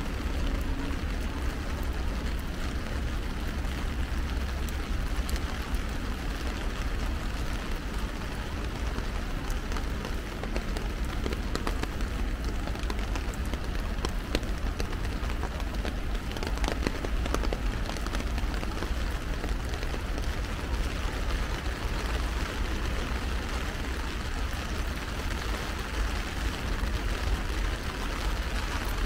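Heavy rain falling steadily and pattering on an umbrella, with a few sharper drop ticks and a steady low rumble underneath.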